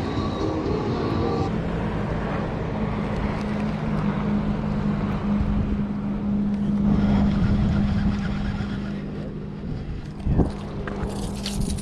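Motorboat engine running with a steady low hum, with wind noise on the microphone. The sound swells about two-thirds of the way through, then eases, and a single sharp knock comes near the end.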